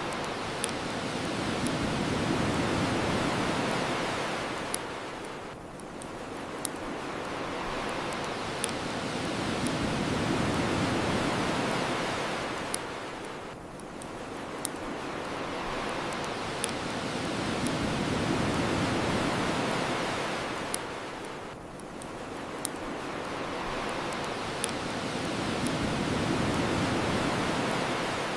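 Ocean waves washing on the shore in slow, even swells about every eight seconds, with the sharp crackles and pops of a wood bonfire scattered through.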